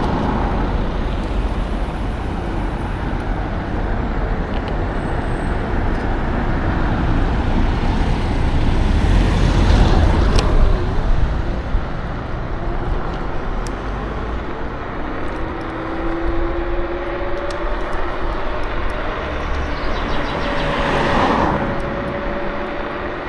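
Wind and road noise from riding a KuKirin G2 electric scooter: a steady rushing with a low rumble, and a faint whine that comes and goes in the second half.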